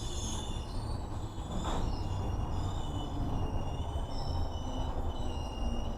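Slow-moving freight train rolling through the station with a steady low rumble and several high wheel squeals that waver and overlap as it slows down.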